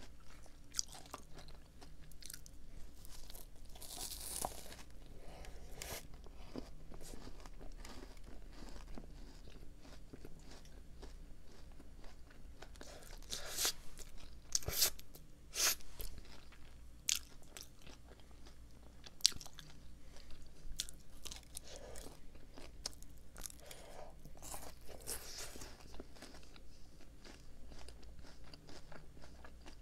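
Close-up mouth sounds of biting and chewing a chocolate donut topped with crisp Loacker wafer-bar pieces, crackly crunches between quieter wet chewing. The loudest crunches come about four seconds in and again around fourteen to sixteen seconds in.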